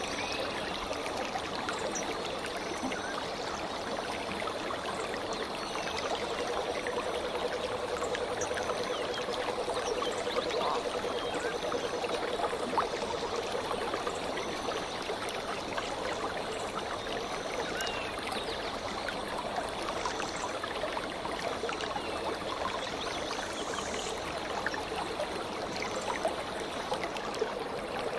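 Stream water running and trickling steadily, with small birds giving short high chirps now and then, and a low wavering call lasting several seconds in the first half.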